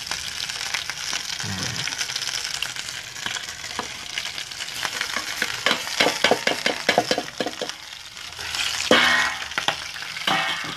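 Chicken frying in an aluminium pot with a steady sizzle. About five to seven seconds in come a run of quick knocks and scrapes from a utensil stirring in the pot, and the sizzle swells loudly about nine seconds in as the sliced tomatoes cook over the chicken.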